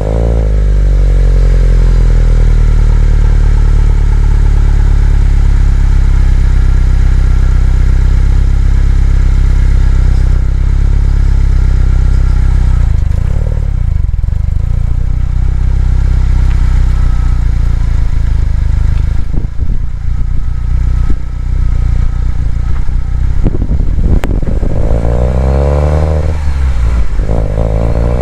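Subaru WRX STI's turbocharged flat-four boxer engine just after starting: the idle speed drops over the first couple of seconds, then settles into a steady idle. Near the end the revs rise and fall twice.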